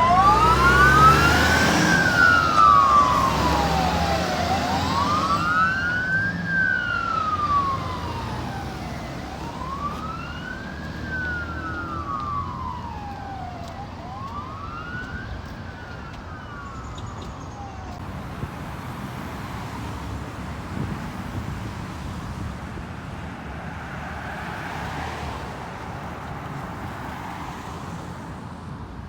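Fire truck siren on a slow wail, rising and falling about every five seconds, with the truck's engine rumbling underneath at the start. The siren fades as the truck moves away and is gone by about two-thirds of the way through, leaving steady traffic noise.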